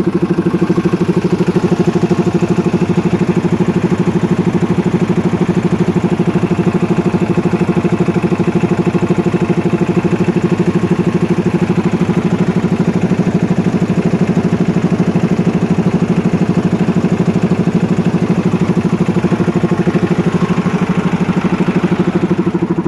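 Farmtrac tractor's diesel engine idling steadily, with a fast even beat of firing pulses.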